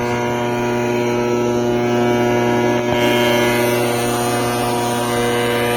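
Industrial variable frequency drive humming loudly and steadily under 3-phase 380 V supply, a deep hum with several higher tones above it that does not change. It is the drive's fault noise, which is traced to its magnetic contactor.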